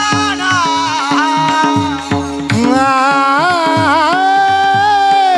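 Male voice singing a Marathi kirtan melody in long, ornamented held notes that slide between pitches, over a steady drone and regular hand-drum strokes.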